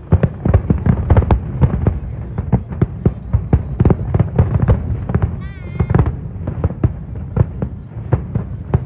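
Aerial fireworks going off in quick succession: a dense barrage of booms and cracks, several a second, over a continuous low rumble, with a brief wavering high-pitched tone about halfway through.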